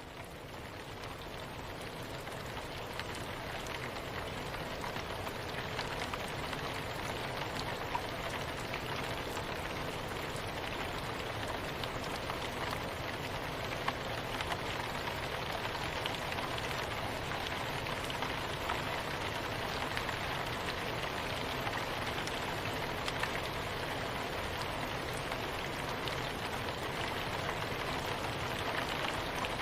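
Soft, steady rain: an even hiss of many small drops, fading in over the first few seconds and then holding steady.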